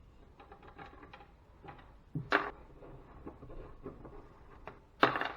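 Hand tool work on a stuck flathead screw in a metal casing: quiet scattered clicks and scrapes of a screwdriver, with a sharp knock about two seconds in and a louder clatter near the end.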